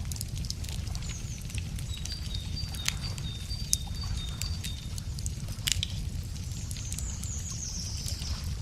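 Wood bonfire crackling with frequent sharp pops over a low steady rumble, with birds singing: a quick run of evenly spaced high notes alternating between two pitches about two seconds in, and a falling high trill near the end.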